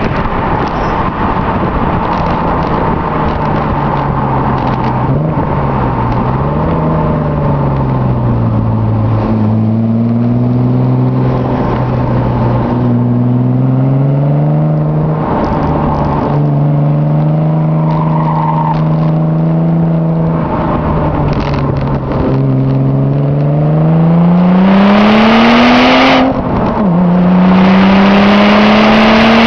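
Audi S4's 2.7-litre twin-turbo V6 with custom exhaust and intake, driven hard: the engine note climbs and falls with the revs over several pulls, loudest and highest about 25 seconds in, then drops suddenly, as at a gear change, and climbs again.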